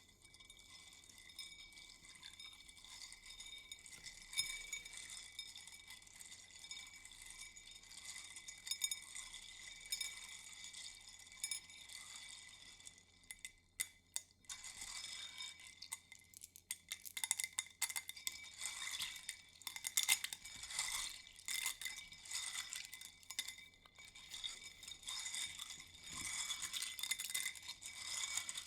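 Light, irregular clinking and tapping of small hard objects being handled, busier and louder in the second half.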